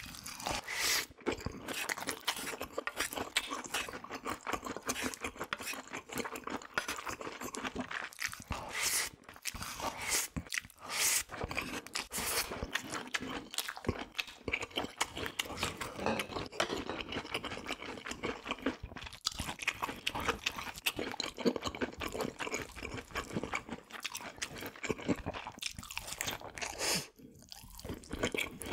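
A person chewing and crunching food close to the microphone, with continuous crackly mouth sounds and a few sharper crunches.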